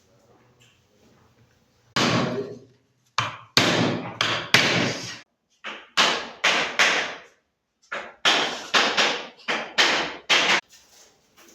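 A run of sharp knocks on wood, about eighteen in irregular clusters, each ringing briefly, starting about two seconds in.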